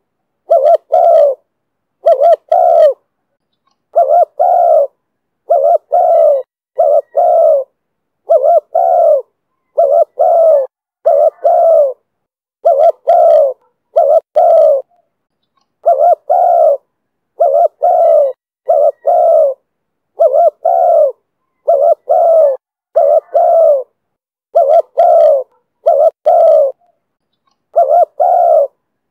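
Spotted dove cooing over and over, in the call type Vietnamese keepers call 'thổ thúc bổi'. Short coos come in groups of two or three, repeating about every one and a half seconds with silence between.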